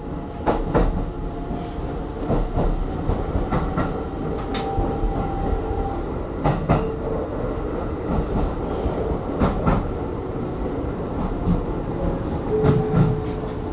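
Electric commuter train running over the rails, heard from inside the front car, with the wheels clicking over rail joints and points every second or two and brief steady whines, as it approaches its terminus.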